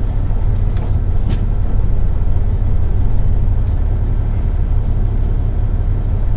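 Semi truck's diesel engine and road noise heard inside the cab as it drives: a steady low rumble, with a couple of faint clicks about a second in.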